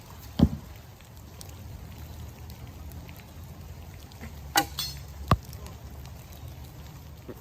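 Bow shooting wooden arrows: a sharp thwack about half a second in, then two more sharp knocks close together a little after the halfway point, over a steady patter of rain.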